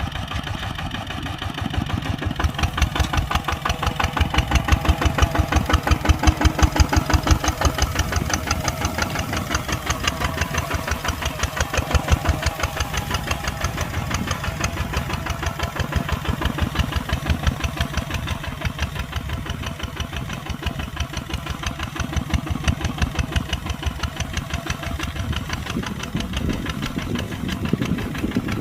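Kubota ZT140 two-wheel tractor's single-cylinder diesel engine chugging steadily with a fast, even beat under plowing load. It is a little louder for a few seconds near the start.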